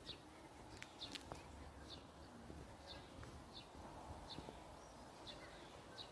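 A bird chirping faintly and repeatedly, a short high call roughly every second, over quiet outdoor ambience, with a couple of small clicks about a second in.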